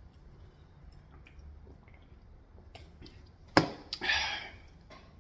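Quiet eating sounds from a person eating Korean fried chicken: faint chewing and mouth clicks, then a sharp click about three and a half seconds in, followed by a short noisy burst.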